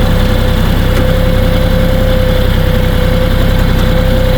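Kioti 3520HST compact tractor's diesel engine running steadily, with a steady high whine held at one pitch over the engine note.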